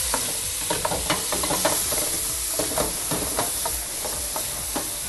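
Chicken and Balti sauce sizzling in a hot wok over a gas flame, with a steady hiss. A wooden spoon scrapes and knocks against the metal many times as the food is stirred.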